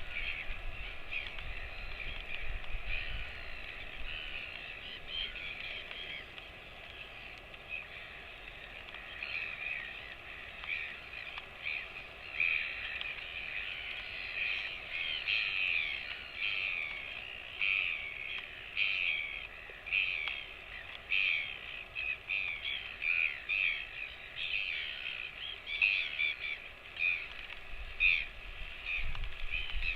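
Birds calling: many short chirps and calls overlapping in quick succession, growing busier about halfway through.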